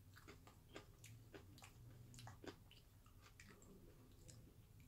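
Faint close-up chewing of a mouthful of seaweed salad, with many soft wet mouth clicks scattered through.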